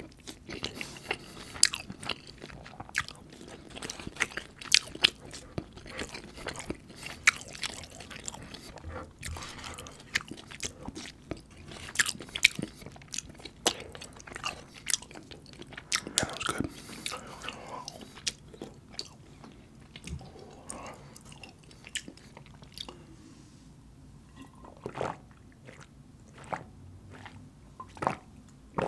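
Close-miked chewing and wet mouth sounds of someone eating butter chicken and rice, with frequent sharp smacks and clicks that thin out over the last third.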